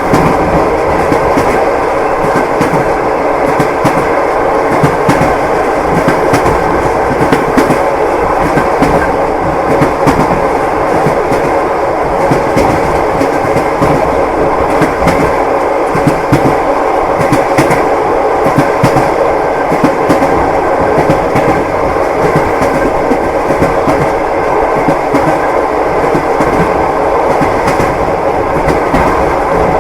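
Train wheels clacking over the rail joints, a steady rumble of a moving railway carriage with frequent sharp clicks.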